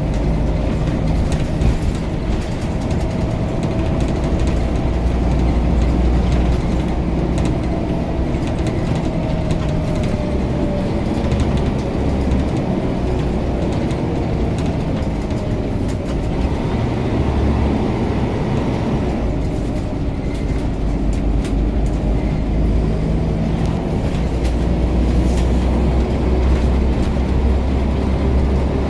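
Scania OmniCity diesel bus heard on board while running along: a steady low engine rumble with a whine whose pitch slowly rises and falls as the bus changes speed, and light rattles throughout.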